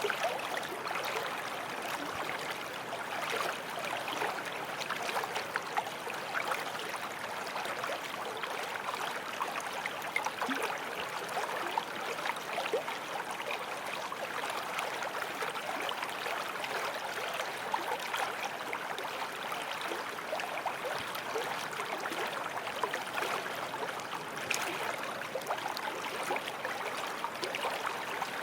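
Shallow forest stream flowing over stones: a steady burble of water with many small splashes and trickles.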